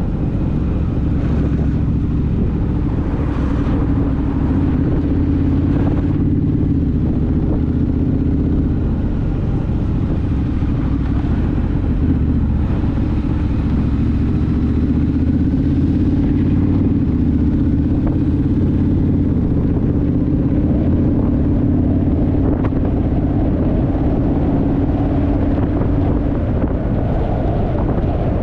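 Honda Rebel motorcycle's parallel-twin engine running at a steady cruising speed, with road and wind noise.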